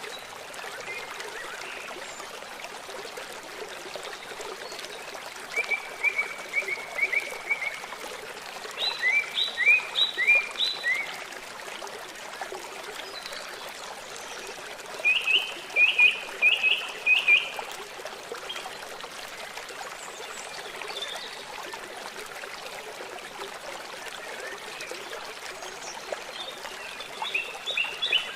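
Steady rush of running water from a stream, with a songbird singing four short phrases of quick repeated notes, a few seconds apart.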